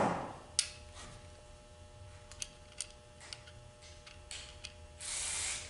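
Transmission parts being handled on the bench: a sharp click as a part is set onto the plate, a second click just after, then scattered light clicks and taps. A short hiss comes about five seconds in.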